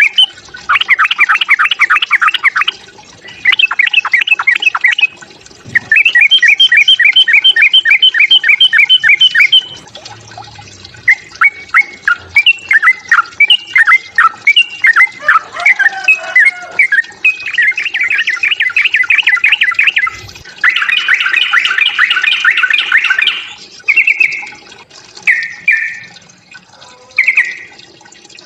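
Yellow-vented bulbul giving its agitated fighting call: loud, rapid chattering runs of repeated notes in bursts of a few seconds, breaking into shorter separate phrases near the end. It is the aggressive call used to provoke other bulbuls into calling.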